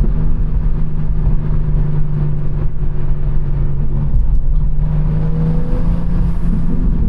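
BMW M4 Competition's twin-turbo straight-six cruising at a steady, loud drone, with its pitch shifting slightly about four seconds in.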